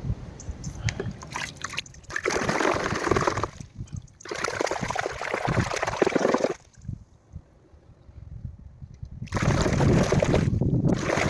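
Running water splashing as the clogged filter of a Dyson V6 cordless vacuum is rinsed with plain water. It comes in three bouts, with a quiet gap of a couple of seconds before the last.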